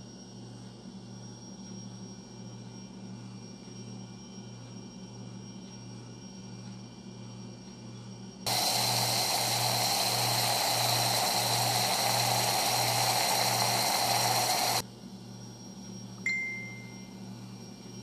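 Low droning hum of horror-film sound design, throbbing about twice a second. About halfway through, a loud rushing hiss cuts in suddenly and stops just as abruptly some six seconds later, followed by a single short ring.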